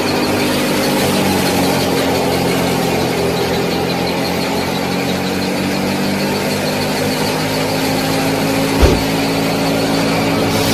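A small motor running steadily, a hum with a faint high whine over it, with a short thump about nine seconds in.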